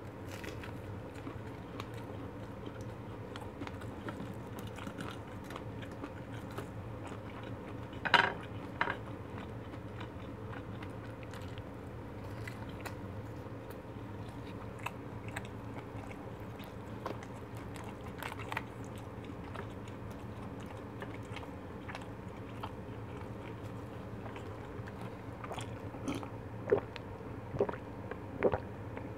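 Close-miked chewing and biting of crunchy fried food (Korean twigim) over a steady low hum. There is one sharp, loud bite about eight seconds in, and a run of louder sharp mouth sounds near the end.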